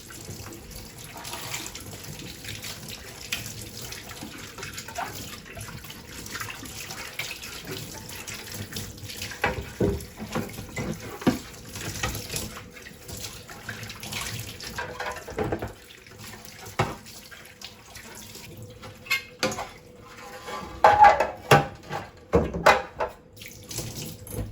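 Water running from a kitchen tap into a sink while things are washed under it, with scattered knocks and clatter of items being handled. The clatter is loudest near the end.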